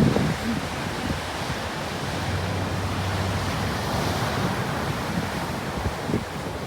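Ocean surf washing onto the beach in a steady rush, with cold wind gusting against the microphone, strongest right at the start.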